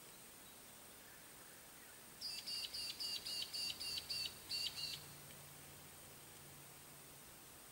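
A small bird singing a quick run of about ten short, high, repeated notes over nearly three seconds, starting a couple of seconds in, against a faint steady hiss.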